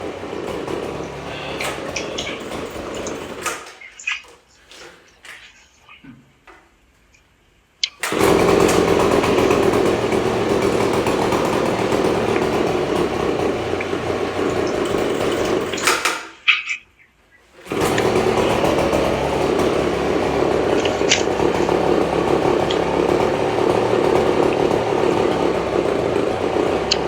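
Echo PB-250LN handheld leaf blower's small two-stroke engine running with a steady rush of air. It dies about four seconds in with a few sputters, catches again suddenly about eight seconds in, cuts out for a moment past the middle, then runs steadily again.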